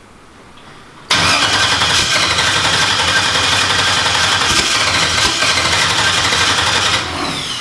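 Race car's newly installed engine catches about a second in and runs loud for about six seconds, then cuts out and winds down with a falling whine. It is a hard-starting engine that won't keep running for long.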